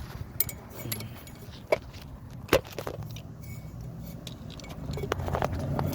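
Scattered sharp metallic clicks and clinks of hand tools and parts being handled, about five separate ones, over a low rumble that grows louder near the end.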